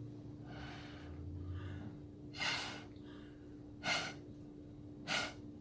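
Short, light puffs of breath blown through a straw, three bursts a little over a second apart, the first a bit longer.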